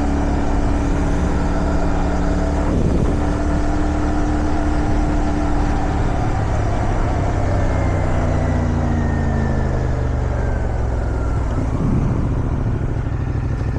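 Motorcycle engine running at road speed under wind noise, its note breaking briefly about three seconds in and again near the end. From about halfway the engine pitch falls steadily as the bike slows.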